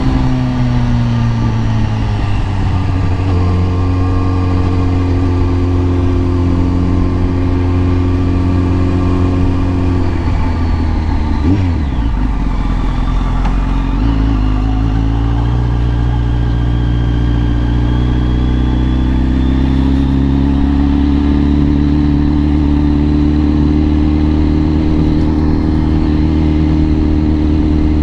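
Kawasaki ZX-10R inline-four engine running at steady road revs. A little before halfway the revs drop sharply and recover, then they climb gradually and hold.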